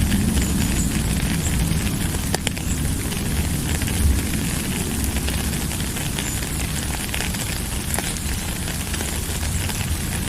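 Steady rain falling, with many scattered drop ticks over a constant hiss and a deep rumble underneath.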